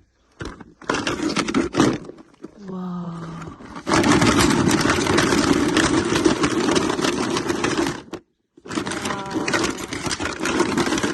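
A small electric motor running with a rattling buzz, starting about four seconds in, cutting out briefly about four seconds later, then starting again. A short voice-like cry comes before it.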